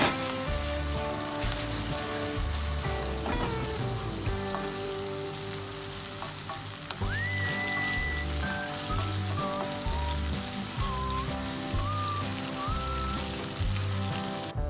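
Duck slices, leeks and green peppers sizzling in hot oil in a frying pan as they are stir-fried. Background music with a pulsing bass and a gliding high melody plays along.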